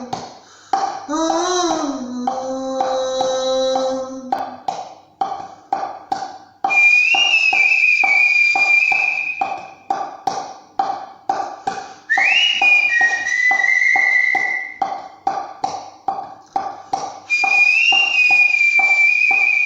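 Artistic whistling: three long, high held notes, each opening with a short upward slide, over a backing track with a steady pulsing beat of about two to three clicks a second.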